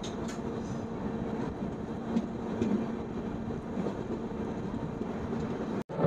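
Moving passenger train coach, heard from its open doorway: a steady rumble of wheels on rail with a few faint clicks. It cuts off abruptly just before the end.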